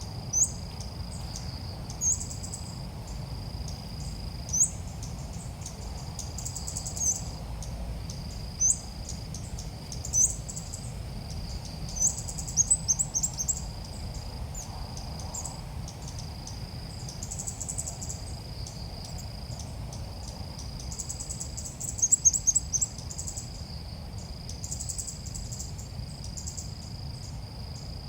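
Ốc mít birds calling: short, high rising chirps and quick trills every second or two, over a steady pulsing insect-like buzz. This is the lure call used to draw ốc mít birds in for trapping.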